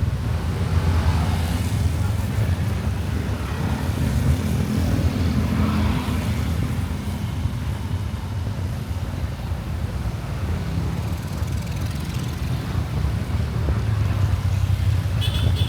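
Motorcycle running under way through traffic, with a steady low rumble of wind buffeting the microphone. A brief higher tone sounds near the end.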